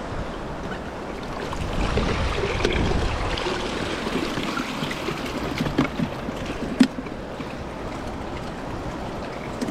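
River water flowing and rushing over stones. Wind buffets the microphone with a low rumble in the first few seconds, and there is a single sharp click a little after the middle.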